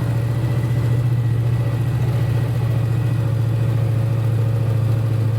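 Chevrolet Suburban's swapped-in engine running at a steady pitch as the truck drives through snow.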